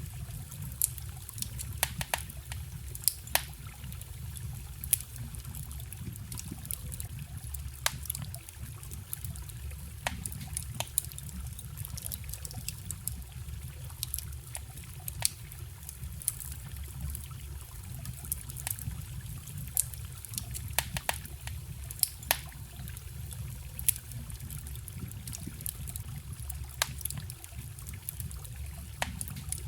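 Wood fire crackling, with sharp pops at irregular intervals, some much louder than others, over the steady low rush and trickle of a forest stream.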